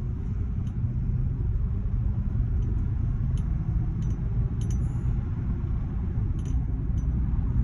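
A truck being driven, with steady low engine and road rumble and a few faint clinks.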